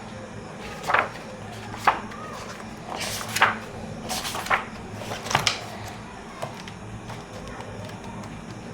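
Book being leafed through and handled: a series of short paper swishes and soft knocks as pages are turned, spread over the first five or six seconds, then only a low steady background hum.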